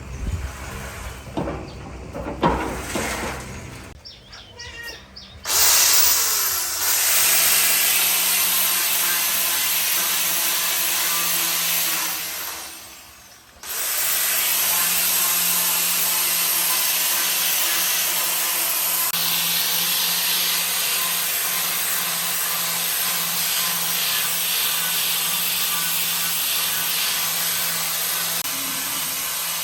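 Handling knocks and rattles, then a power tool starts up and runs with a steady hiss over a hum, stops for about a second and starts again.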